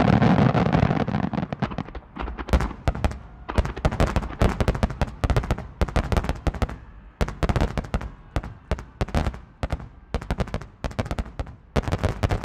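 Aerial firework shells bursting in a dense barrage: a heavy, rolling mass of bangs in the first two seconds, then rapid volleys of sharp reports in clusters through the rest.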